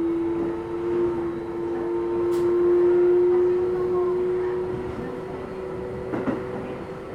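Keio 7000 series commuter train running, heard from inside the car: a steady electric motor whine that creeps slightly up in pitch and then fades about five seconds in, over rolling noise, with a single knock near the end.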